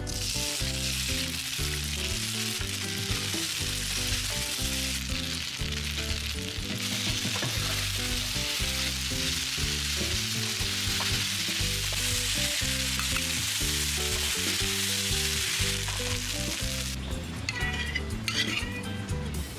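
Short noodles hitting hot oil in a nonstick pan, sizzling at once and frying steadily as they are stirred and tossed with a metal ladle and spatula. The sizzle stops near the end, and a few light metal clinks follow as the noodles are spooned onto a plate.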